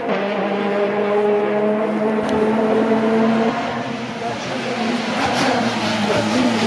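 Rally car engine held at high, steady revs for about three and a half seconds, then the steady note breaks up into a rougher engine and road noise as the car goes by.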